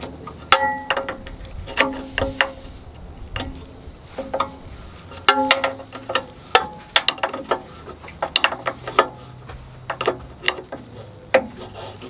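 Irregular metal clanks and clinks, several a second, many ringing briefly: steel parts, tools or chain being handled against metal.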